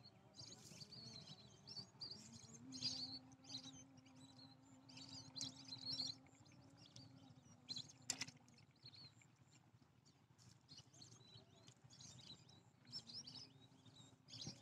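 Small birds chirping, short high calls coming in scattered clusters. Under them is a faint steady low hum from about two to eight seconds in and again near the end, and a single sharp click about eight seconds in.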